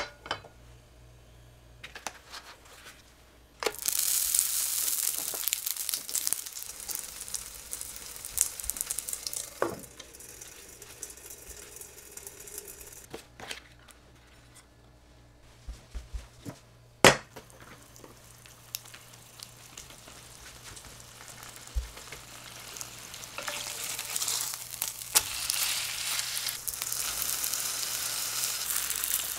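Oil sizzling in a frying pan as a rice-paper-wrapped pork patty fries over medium-low heat. The sizzling comes in two stretches, with a quieter gap between them that holds a few sharp clicks and knocks, the loudest a single sharp click partway through.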